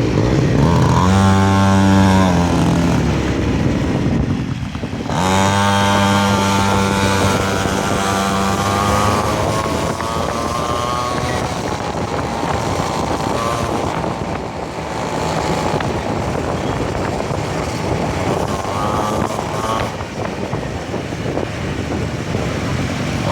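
A homemade mini bike's 49cc two-stroke engine running and revving. Its pitch climbs and falls in the first few seconds, dips briefly about four and a half seconds in, then climbs again and settles into a rougher steady running.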